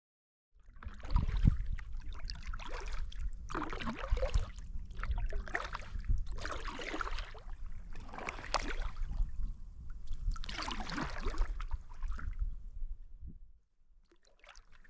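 Kayak paddle strokes in lake water: a splash and trickle of dripping water with each stroke, about every one and a half to two seconds, over a steady low rumble.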